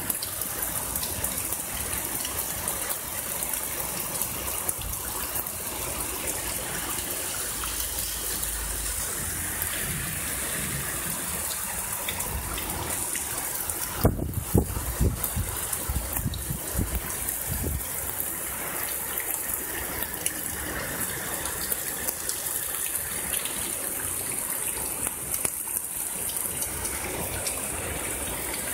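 Heavy rain pouring down steadily, water splashing and gushing onto the street and surfaces. A few low thumps come about halfway through.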